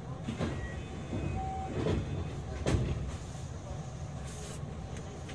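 Running noise inside a JR West 227 series electric train's motor car under way: a steady low rumble from the wheels on the rails, with a few sharp knocks, the loudest just under three seconds in.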